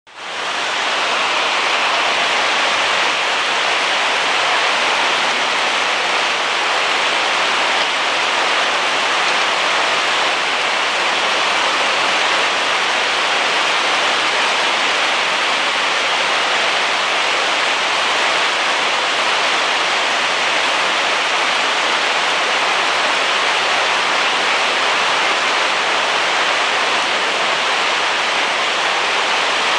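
Heavy rain falling steadily as a dense, even hiss that fades in at the very start and then holds level.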